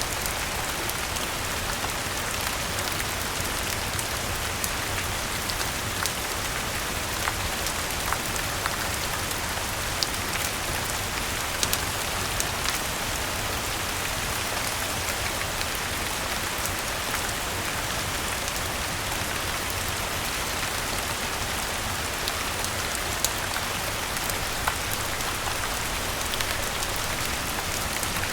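Steady rain falling, an even hiss of drops, with scattered sharp pops and crackles from a log fire every second or so.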